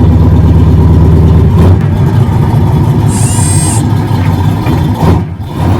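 A car engine running loudly with a deep, steady low rumble, typical of a show car's big engine. A brief high-pitched squeal sounds about three seconds in.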